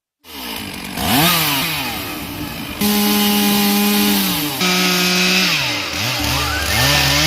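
Chainsaw engine running at high revs while cutting a tree. Its pitch falls and rises again several times as the chain is loaded, with long steady stretches in between, and its level jumps abruptly a few times.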